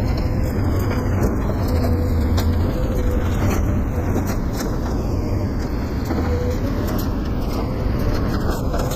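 A vehicle on the move: a steady, loud low rumble of engine and road noise, with scattered small clicks and rattles.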